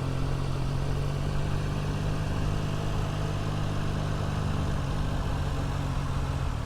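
Motorcycle engine running at steady low revs, with an even, unchanging hum and no revving.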